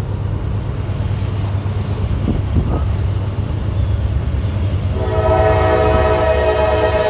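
Train rumbling past close by, with a couple of goose honks early on. About five seconds in, the locomotive's horn starts a steady blast that holds.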